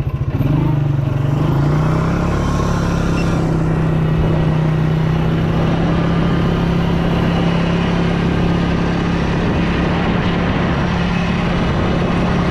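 Motorbike engine running at steady revs, its note climbing a little in the first two seconds and then holding level.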